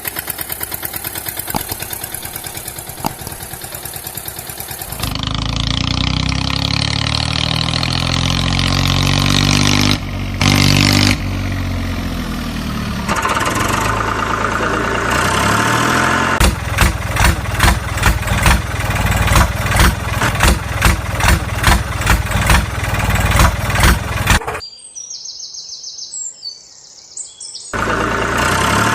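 Vehicle engine sounds in several abruptly changing stretches: a fast steady pulsing engine, then engine pitch rising and falling, then a regular beat of about two pulses a second, a brief quieter gap near the end, and the engine again.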